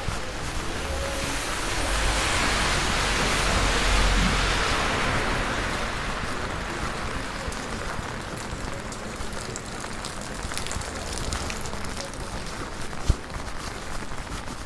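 Heavy rain falling, a steady hiss that swells louder for a few seconds near the start and then settles back.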